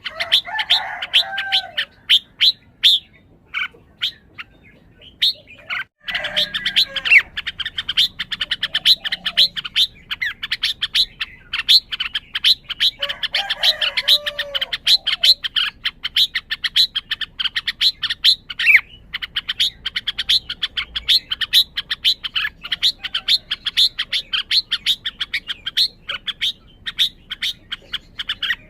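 Red-whiskered bulbul calling in a rapid run of sharp chirps, several a second, with short lower warbled phrases now and then. The owner wonders whether this display means the bird is highly worked up.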